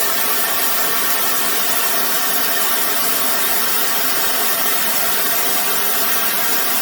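Oxy-acetylene torch flame running with a steady hiss, heating a steel bar red for bending.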